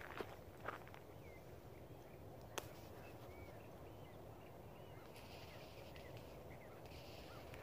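Faint, scattered chirps of birds in near quiet, with one sharp click about two and a half seconds in.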